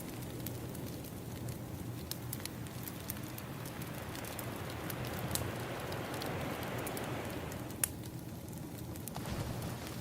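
Crackling wood fire, sharp pops and snaps scattered over a low steady hiss, with ocean waves; one wave swells up from about three seconds in and falls away near the end.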